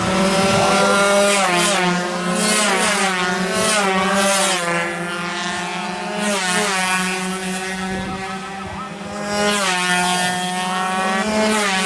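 Two-stroke 116cc underbone race motorcycles running hard, the engine pitch climbing and dropping several times as they rev and shift through the gears.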